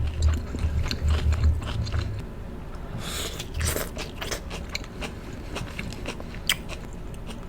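Close-miked chewing of ribeye steak and onions: wet mouth clicks and smacks over low rhythmic jaw thumps for the first two seconds, a denser burst of chewing noise about three seconds in, and a single sharp click near the end.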